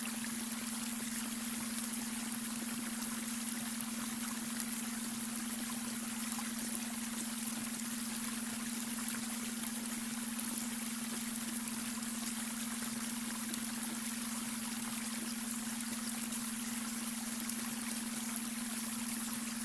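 Babbling brook: a steady rush and trickle of running water, with a steady low hum underneath, the beta brainwave tone blended into the mix.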